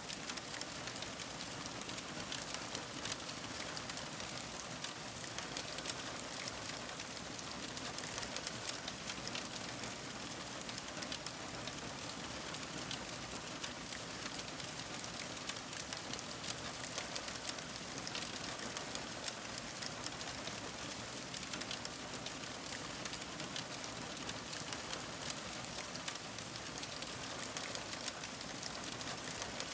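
Fire crackling: a steady hiss dotted with many small, sharp, irregular pops and crackles.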